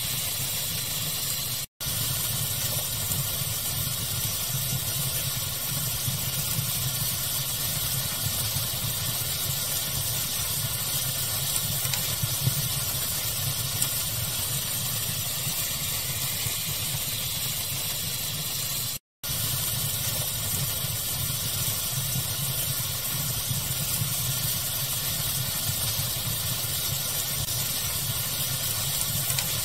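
Steady pink-noise hiss blended with a crackling fire, with a few faint pops. The sound cuts out to silence briefly twice, about two seconds in and about two thirds of the way through.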